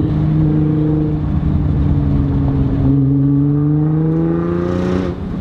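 2017 Nissan GT-R's twin-turbo V6, breathing through an Armytrix valved exhaust and heard from inside the car, pulling under throttle. Its pitch holds about level, then climbs steadily for a couple of seconds and falls away sharply near the end, as at a gear change.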